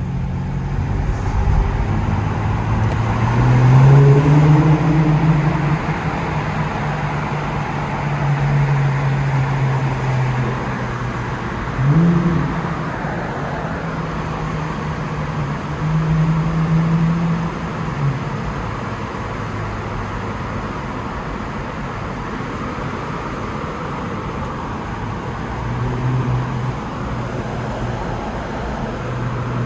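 Infiniti Q50's V6 with the muffler deleted, accelerating in short bursts. The exhaust note climbs and is loudest about four seconds in, rises sharply again near twelve seconds and around sixteen seconds, with a smaller swell near the end. Between the bursts it drones steadily under road noise.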